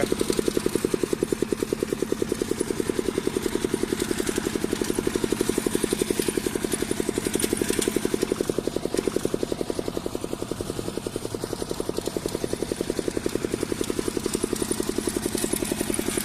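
Heavy walk-behind tractor's single-cylinder engine running steadily with an even, rapid beat.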